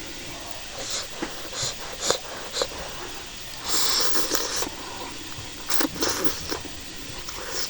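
Close-up eating sounds of a person eating hot, spicy instant noodles with dried meat: wet mouth smacks and clicks while chewing, with a longer breathy slurp about four seconds in.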